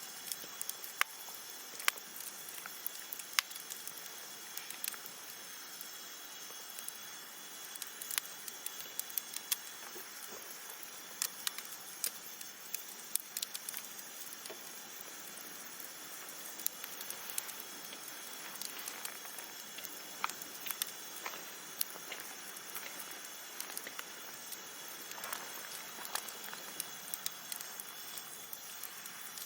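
Wood campfire burning: a steady hiss with frequent irregular crackles and pops.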